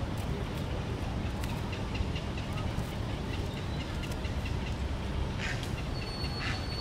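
A bird repeating short high chirps several times a second over a steady low background rumble, with a couple of brief rustles near the end.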